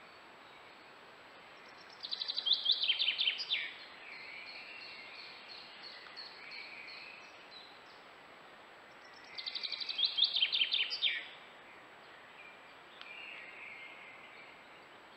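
A songbird singing two loud phrases about seven seconds apart, each a quick run of high repeated notes ending in a falling flourish, with fainter birdsong between, over a steady hiss.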